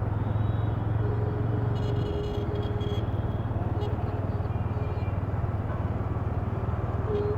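Motorcycle being ridden, heard through a helmet-mounted microphone: a steady low engine drone under wind and road noise. A faint steady tone comes in about a second in and again near the end.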